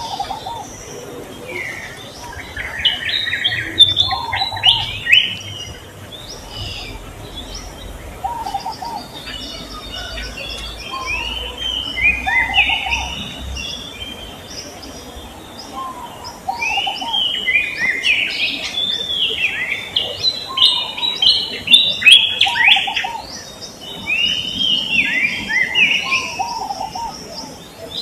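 Songbirds chirping and singing in overlapping bursts of quick rising and falling notes every few seconds, with a lower short call repeating in between.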